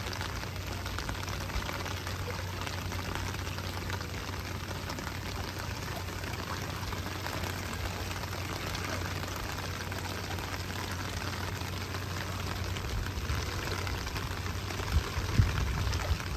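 Steady rain falling onto standing floodwater, an even, continuous patter, with a couple of brief low thumps near the end.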